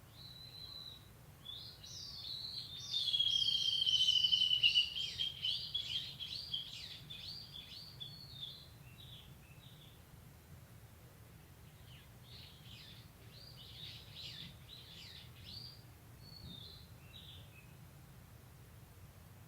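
Japanese bush warbler (uguisu) singing: a long whistled note, then a fast run of repeated notes that fades away, with a few more scattered notes later. A faint steady low hum runs underneath.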